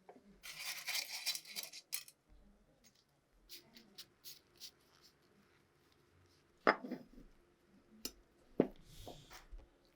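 Hand work on small pistol parts: a second or so of scrubbing near the start, then scattered light clicks and two sharper knocks of metal parts.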